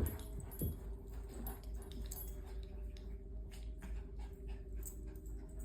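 Faint sounds of a dog moving close by: a soft thump at the start, then scattered light clicks over a steady low hum.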